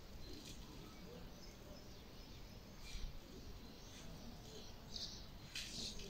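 Small birds chirping now and then: short high chirps scattered through, with a cluster near the end, over a steady low background rumble.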